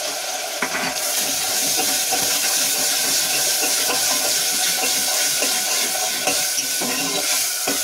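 Ground onion paste sizzling hard in hot oil in a pressure cooker as it is stirred with a steel ladle. The hiss swells about a second in and holds steady, with a few ladle knocks early on.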